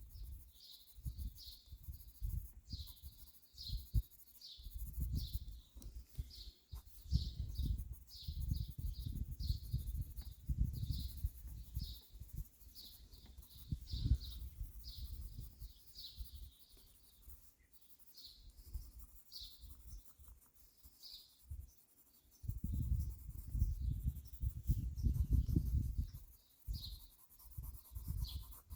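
Birds chirping in quick repeated short calls, with a colored pencil scribbling and rubbing on sketchbook paper in stretches.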